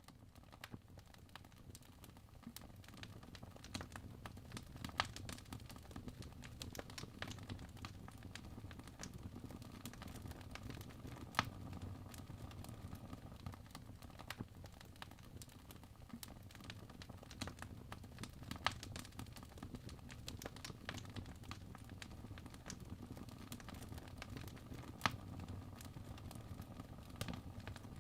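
Logs burning in a fireplace, crackling with frequent small snaps and a few louder pops, over a low steady rumble of the fire. It fades in over the first couple of seconds.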